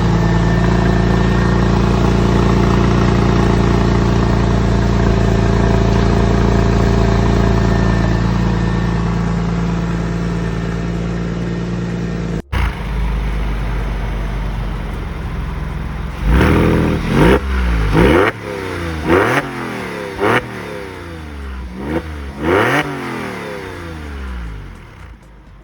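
Porsche 911 (996) flat-six engine running through a Fister aftermarket exhaust. It idles steadily, then after a cut it is blipped about six times in quick succession, each rev rising and falling in pitch.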